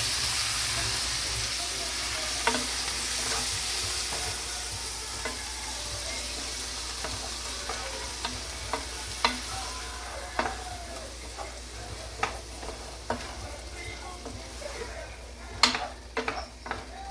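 Food sizzling in a pan while a utensil stirs and taps against it. The sizzle is steady and slowly dies down, with scattered clicks and a quick run of louder taps near the end.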